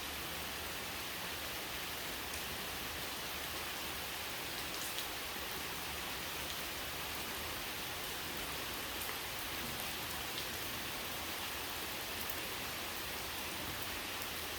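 Steady rain falling, an even hiss with a faint tick of a single drop now and then.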